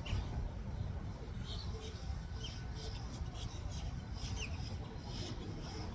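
Birds chirping: scattered short, high, falling chirps and squeaks over a steady low rumble.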